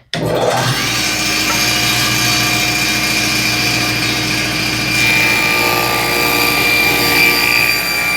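A woodworking power saw switches on suddenly, its pitch rising over the first second as the motor spins up, then runs steadily while cutting wood.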